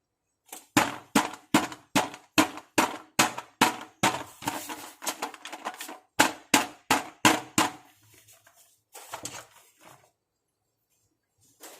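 Hard plastic toy makeup pieces being tapped and clicked by hand in a steady run of sharp taps, about two and a half a second. A few seconds in comes a stretch of scraping rustle, then another run of taps, fading to light handling near the end.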